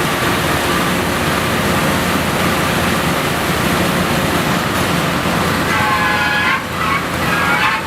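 Drilling rig machinery running with a loud, steady din, and a person's voice cutting in about six seconds in.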